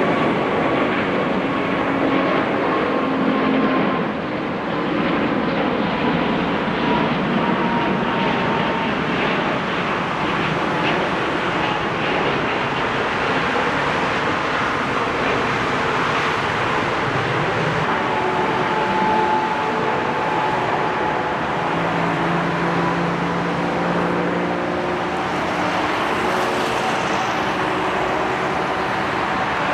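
Airbus A380's four jet engines running during a landing: a steady rush of noise with faint whining tones that slowly fall in pitch.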